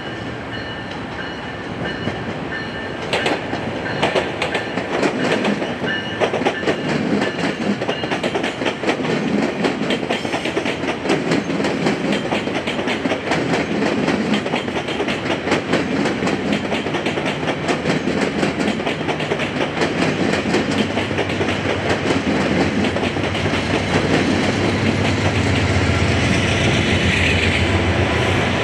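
Passenger trains passing on multiple tracks, first a GO Transit bilevel commuter train and then a VIA Rail train: a steady rumble with wheels clicking over rail joints and switches. The clicking gets faster and denser from about three seconds in, and a deeper rumble builds near the end as the VIA Rail coaches roll close by.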